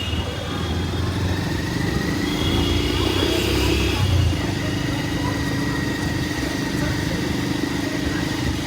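Busy railway station ambience: a steady engine drone and general noise with scattered voices, joined about four and a half seconds in by a steady held tone.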